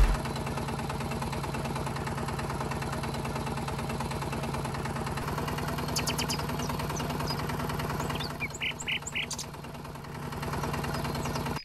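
The motor of a DIY miniature tractor running steadily, with a fast, even pulsing, and a few short high chirps partway through.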